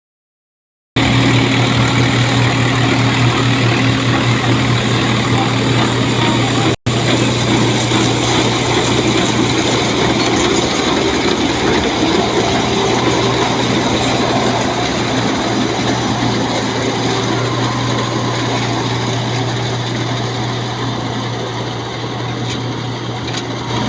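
Tractor diesel engine running steadily with a constant low hum, starting about a second in, with a momentary cut-out about a third of the way through.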